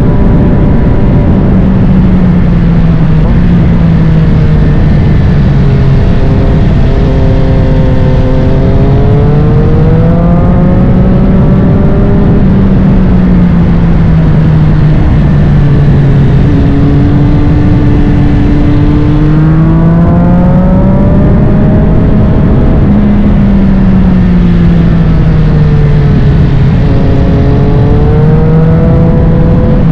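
Triumph Street Triple 765 RS inline three-cylinder engine running through a Spark Grid-O full exhaust, ridden hard. Its pitch climbs and falls several times as the rider accelerates and backs off, over a steady rushing noise.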